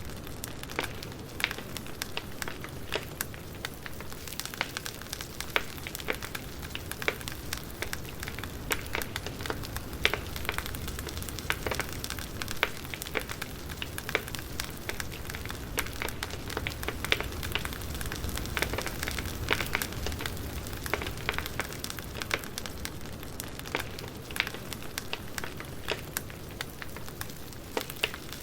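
Wood fire burning with a steady low rumble and many irregular crackles and pops.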